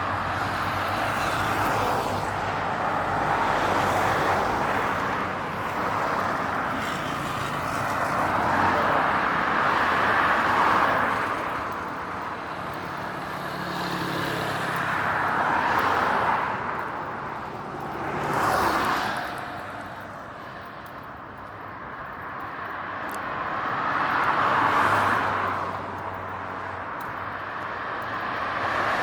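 Road traffic heard at the roadside: cars passing one after another, each swelling and fading as it goes by, with a lull about two-thirds of the way through.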